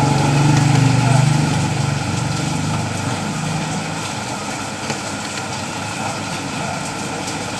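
Steady rain hiss, with an engine running under it that fades away about three seconds in.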